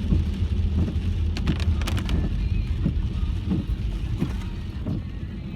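Car driving through heavy rain, heard from inside the cabin: a steady low engine and road rumble under the hiss of rain and tyre spray, with a few sharp ticks about one and a half to two seconds in. It grows gradually quieter toward the end.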